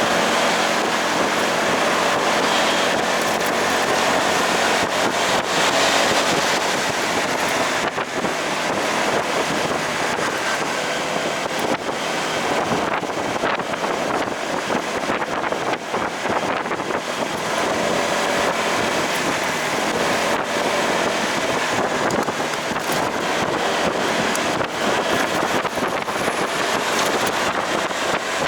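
Wind rushing over the microphone of a moving motorcycle, with engine and road noise underneath.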